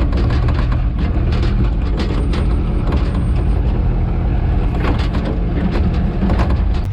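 Heavy machine's engine running steadily under work, with frequent clanks and rattles throughout.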